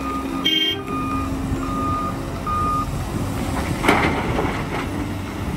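Reversing alarm beeping at an even pace, about once a second, over a steady engine rumble, as from a heavy construction vehicle backing up; the beeps stop about three seconds in, and a short hiss comes near four seconds.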